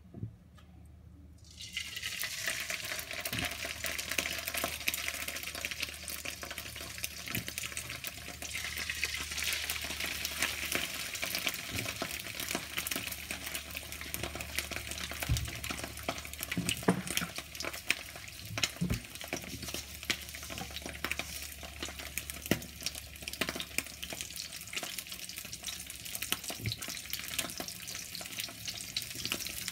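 Two salmon fillets frying in hot oil in a frying pan, sizzling and crackling steadily. The sizzle starts suddenly about two seconds in, with a few soft knocks partway through.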